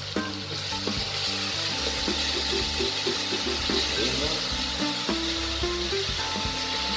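Chopped garlic and onion frying slowly in oil in a pot, a steady sizzle that grows a little louder about half a second in. Background music plays underneath.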